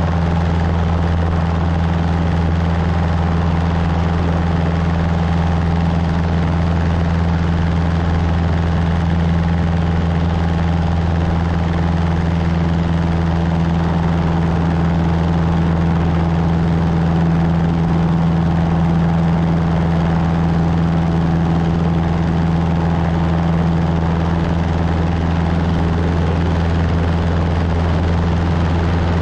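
Cessna 150's four-cylinder Continental O-200 engine and propeller droning steadily in flight, with no change in pitch or power.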